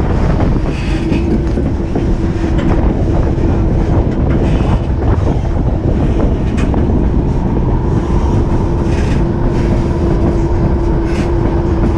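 White Pass & Yukon Route narrow-gauge passenger train heard from on board while moving: a steady rumble of wheels on rail with scattered clicks and clacks. A steady pitched whine comes in about a second in and runs on, with a fainter higher whine joining past the middle.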